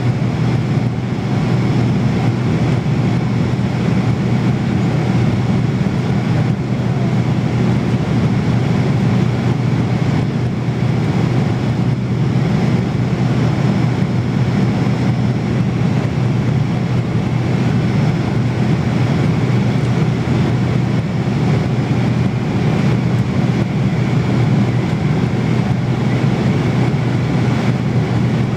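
Steady, unchanging drone of an airliner cabin in flight: engine and airflow noise, heaviest in the low range.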